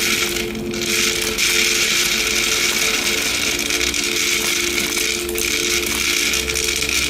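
A small electric motor running steadily, a constant hum with a strong hiss over it.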